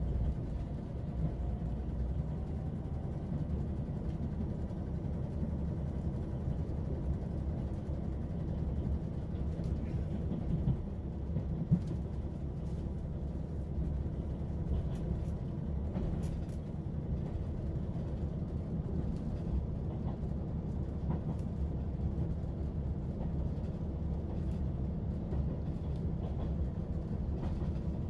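Train running: a steady low rumble with a few light clicks.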